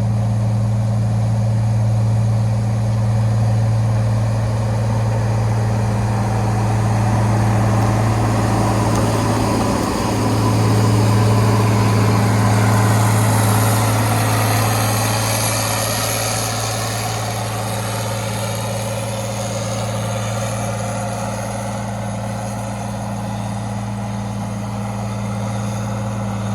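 An engine running steadily with a constant low hum. A rougher wash of noise swells in the middle and fades again.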